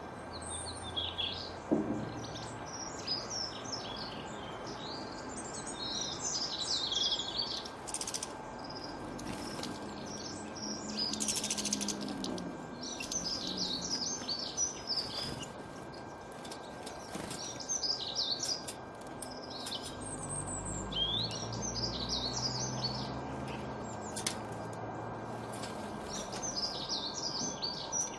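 Songbirds chirping and twittering in quick high phrases that come every few seconds, over a faint steady hum. A sharp knock sounds about two seconds in, and a low rumble rises and fades about two-thirds of the way through.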